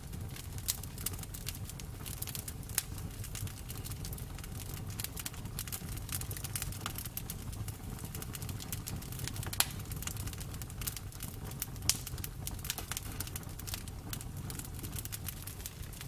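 Wood fire crackling: irregular sharp pops and snaps over a low steady rumble of burning, with a couple of louder pops past the middle.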